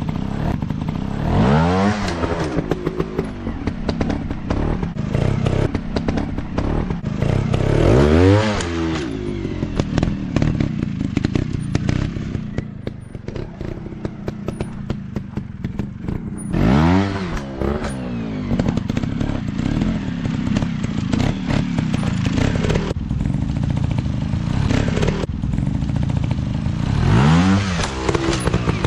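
Dirt bike engines running, revving up and easing off about four times, with clattering from the bikes working over rough ground.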